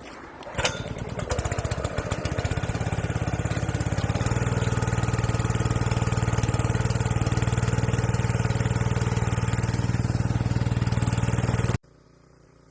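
Small gasoline engine starting up, then running at a steady speed with an even, rapid firing beat. The sound cuts off suddenly just before the end.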